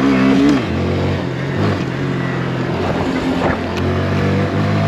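Honda Grom mini bike's single-cylinder engine running under way, dropping in pitch about half a second in as the revs come down, then holding fairly steady.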